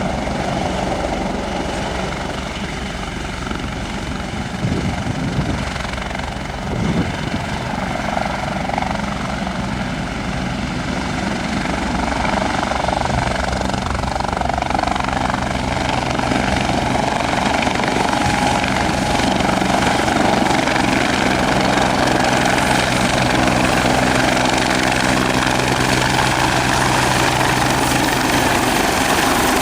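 Bell 430 twin-turbine helicopter running, a steady rotor and turbine sound with a low engine hum that grows gradually louder from about halfway through.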